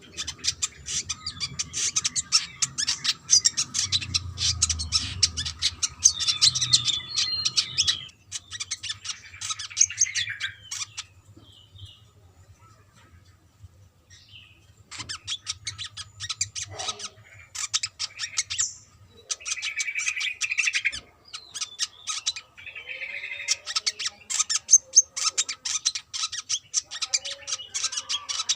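Brown-throated sunbird singing: fast, high-pitched chirping and twittering phrases in several bursts, with a pause of a few seconds about halfway through.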